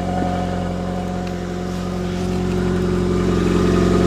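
2004 Nissan Sentra's 1.8-litre four-cylinder engine (QG18DE) running after a cold start, getting louder over the last couple of seconds. The owner is pretty sure the muffler is badly damaged, which colours the exhaust note.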